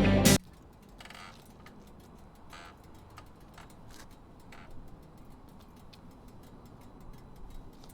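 Hot motorcycle engine and exhaust ticking as the metal cools, with faint, irregular ticks several times a second and no engine running. The bike is really hot. A song ends abruptly just before the ticking.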